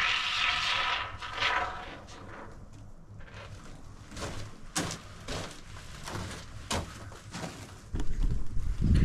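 Scattered short knocks and clicks of hand work, after a hissing noise in the first second and a half.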